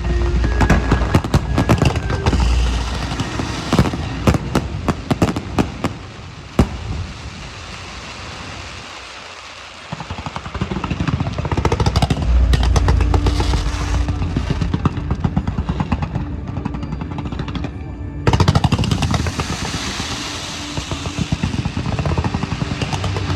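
Fireworks going off in rapid volleys of bangs and crackles over loud music from loudspeakers. The bangs thin out about six seconds in, the music carries on alone for a few seconds, then dense crackling returns and grows louder with a sudden burst near eighteen seconds.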